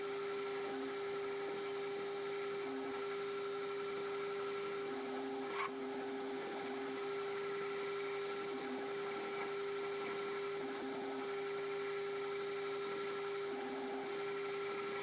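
Metal lathe running with a steady whine, a light click about halfway through.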